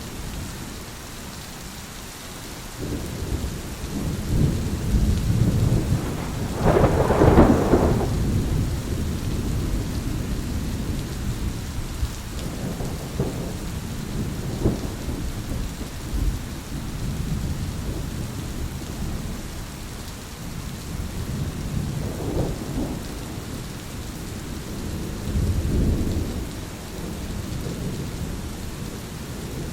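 Thunderstorm: steady rain with rolling thunder. The loudest crack and rumble comes about seven seconds in, and lighter rolls follow near the middle and again towards the end.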